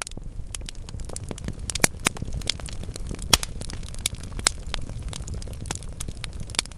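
Wood fire burning in a fireplace, crackling with frequent irregular sharp pops over a low steady rumble of the flames; the loudest pop comes about halfway through.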